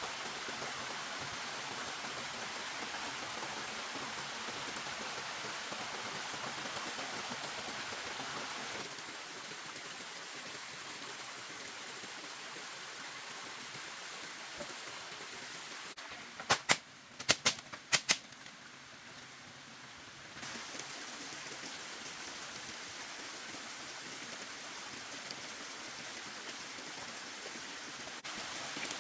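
Steady hiss of rain, changing in level abruptly a few times. Near the middle it drops away and a quick run of about six sharp knocks stands out as the loudest sounds.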